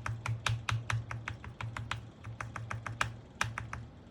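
A single key on a mechanical keyboard with Gateron Pro Milky Yellow linear switches pressed rapidly over and over, clicking about four to five times a second and thinning out after about three and a half seconds, with a steady low hum underneath. The key is being spammed to spread the switch lubricant after it had been binding, and its travel now runs normally.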